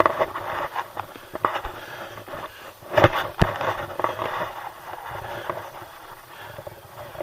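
Crampon steps crunching and scraping on snow, with many small irregular clicks and two sharp knocks about three seconds in.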